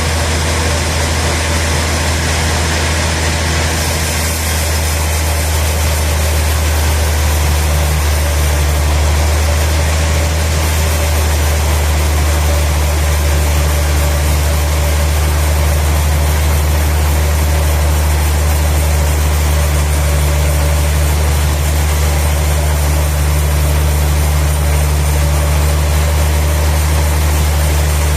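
Sawmill machinery running steadily with a deep, even hum and no sharp changes.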